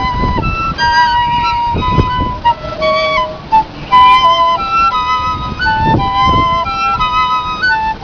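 Two piccolos playing a duet, two high melodic lines in held notes that move in steps. A few low rumbles sound underneath.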